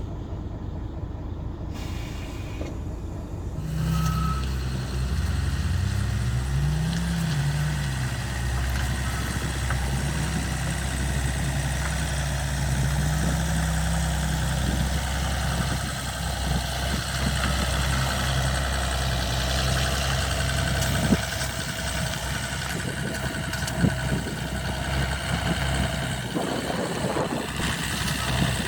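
Mercedes-Benz Actros MP3 truck's V6 diesel engine running while the truck is manoeuvred. The engine note gets louder about four seconds in and rises and falls in speed several times, with a couple of short sharp sounds later on.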